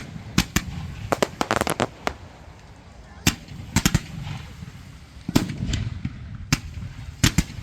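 Display fireworks going off: more than a dozen sharp bangs at irregular intervals, with a quick run of crackling about a second and a half in.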